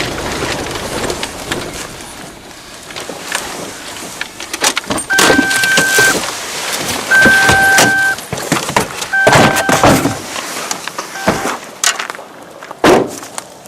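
Vehicle driving over rough ground with a steady rumble, then rattles and knocks. Three electronic beeps sound about a second apart, and the engine rumble stops near the end.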